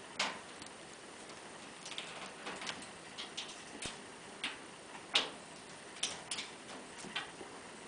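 Irregular sharp clicks and small cracks, about a dozen scattered unevenly over several seconds, with one louder crack a little past the middle.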